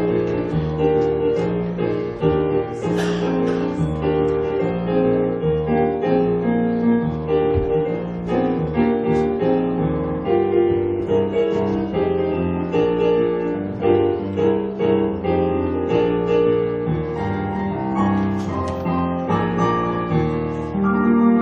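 Piano music playing a melody over a bass line, with no speech.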